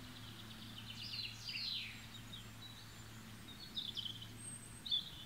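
Wild songbirds singing: a run of quick falling notes about a second in, then short high chirps toward the end, over a faint steady low hum.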